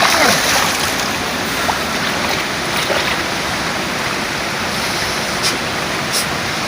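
Steady, loud rush of water, with a short falling sweep right at the start and a couple of faint ticks near the end.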